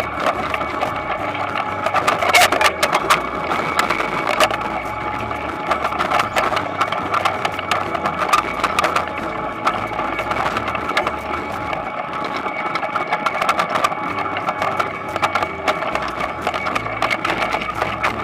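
Toyonoki potato harvester running steadily, its machine hum overlaid with constant rattling and clicking.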